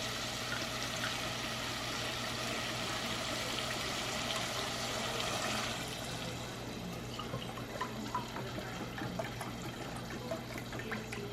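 Low-sodium chicken broth poured into a pot of cooking potatoes, a steady pour that stops about six seconds in, followed by a few small ticks and drips.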